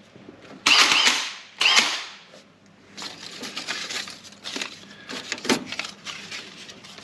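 Two short blasts of blown air hiss across the freshly ground hole in the car's sheet-metal panel, clearing off the filings, followed by a scatter of light metallic clicks and taps as parts are handled around it.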